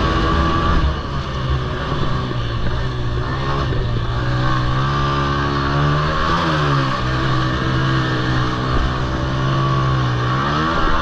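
Honda TRX90 youth quad's small single-cylinder engine running hard at high revs under racing. The revs waver briefly about six seconds in, then hold steady and climb near the end.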